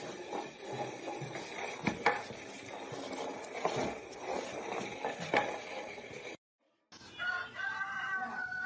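Light clinks and a few sharp knocks, like dishes handled in a small room. Near the end, after a short break, an animal's long, drawn-out call begins, falling slightly in pitch.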